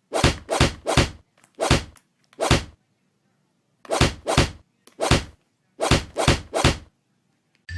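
About a dozen loud, sharp thumps or knocks in irregular groups of two or three, each dying away quickly, with a pause of about a second midway.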